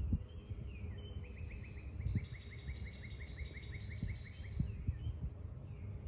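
A songbird singing a quick series of repeated notes, about six a second, for roughly three seconds starting about a second in, over a low background rumble.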